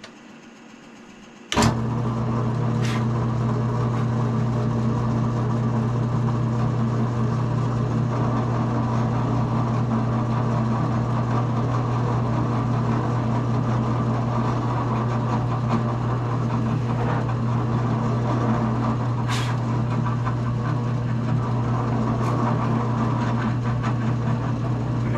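Drill press switched on about a second and a half in, its motor then running with a steady hum while a small pilot bit bores through the wooden guitar body.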